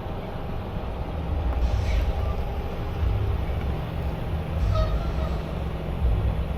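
Semi-truck's diesel engine and road noise heard from inside the cab while driving: a steady, uneven low rumble, with two faint brief squeaks, about two seconds in and near five seconds.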